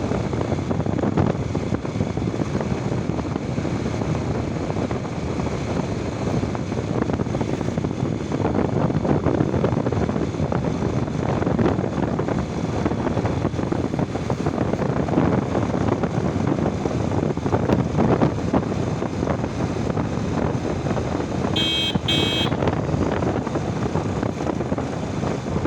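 Wind buffeting the microphone over steady motorcycle and road noise while riding. Two short high beeps sound in quick succession near the end.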